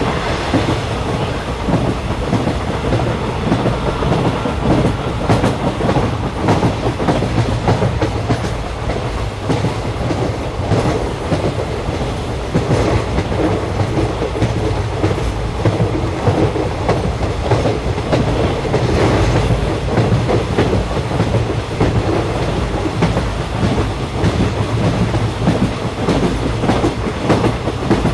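A train running along the track: a steady rumble with the clack of wheels over the rails.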